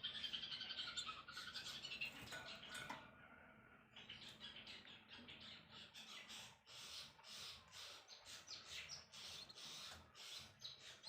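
Songbird calling: a fast twittering trill for the first few seconds, then a rapid run of short, sharp chip notes, several a second.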